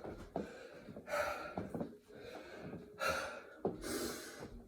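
A person out of breath from hard exertion after finishing a set of 25 burpees, taking several loud gasping breaths with short pauses between them.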